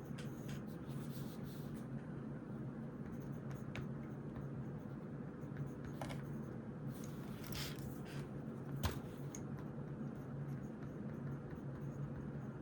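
Writing by hand on notebook paper: scattered short scratchy strokes and light taps, a longer run of scratching about seven seconds in and a sharper click near nine seconds, over a steady low hum.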